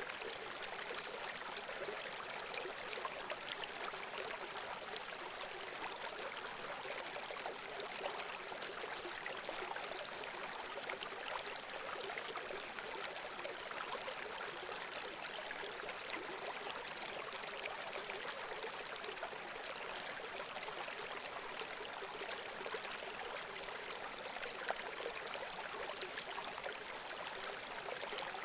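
Running water from a stream, a steady, unbroken rush and babble.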